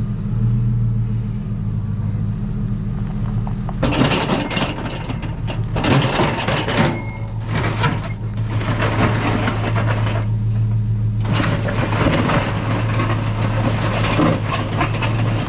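Plow truck's engine running steadily, with loud stretches of scraping and crunching from about four seconds in as the plow blade pushes soft snow and thick ice.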